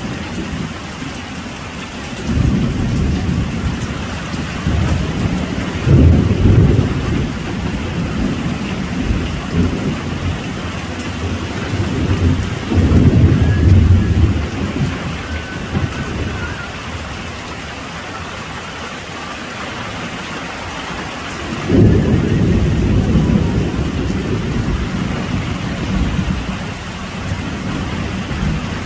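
Heavy rain falling steadily, with several rolls of thunder rumbling over it. The loudest rolls come about 6 and 13 seconds in, and another starts abruptly about 22 seconds in.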